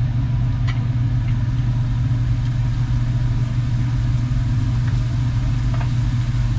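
Steady low mechanical hum that holds unchanged throughout, with a few faint light clicks over it.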